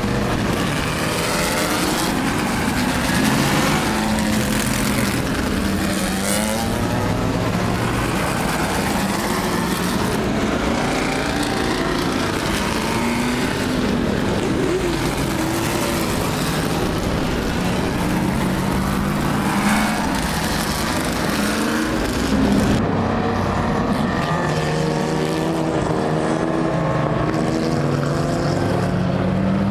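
Historic racing cars' engines revving up and down through the gears, several cars at once, as they pass on the circuit.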